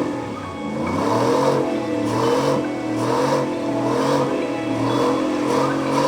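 Car engine revving up and down over and over, about once a second.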